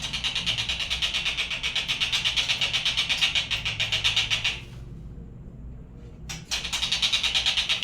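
A high, rapid pulsing trill, about a dozen pulses a second, from a lure recording played to get magpie robins singing; it breaks off for about two seconds past the middle and then starts again.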